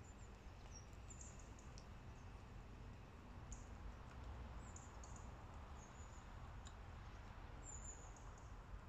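Quiet outdoor background with a low steady rumble, and faint, short high-pitched bird chirps at scattered moments, plus a couple of light clicks.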